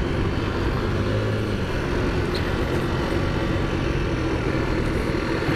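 Taotao Zummer 50cc scooter engine running at a steady cruise while riding, with an even rush of wind and road noise over it.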